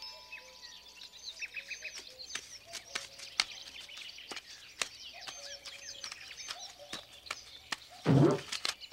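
Birds chirping in the background: many short high chirps and whistles, with a quick trill about a second and a half in and scattered light clicks. A louder short sound comes near the end.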